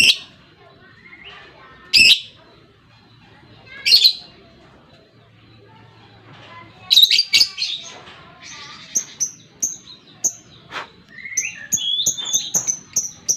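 Lovebird calling: sharp, high shrieks about every two seconds, then from about nine seconds in a quickening run of short, high chirps, several a second.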